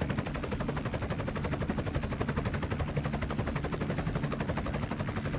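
DIY mini tractor's small engine running with a rapid, even chugging clatter of about ten beats a second.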